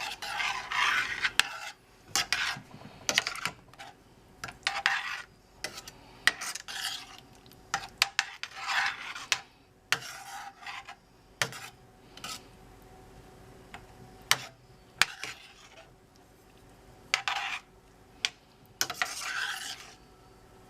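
A spoon stirring and scraping through a pot of thickening turkey pot pie filling, in irregular strokes with sharp clicks of the utensil against the pot. The strokes ease off for a few seconds about two-thirds of the way through, then pick up again.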